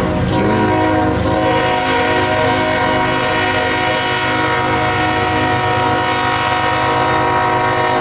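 Diesel locomotive horn of a CSX freight train sounding one long, unbroken chord through the whole stretch over the steady rumble of the lead ES44AC's diesel engine.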